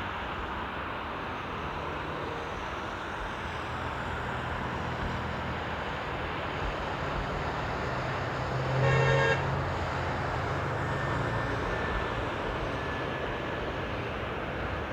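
A single short vehicle horn toot about nine seconds in, over a steady background rumble of distant traffic.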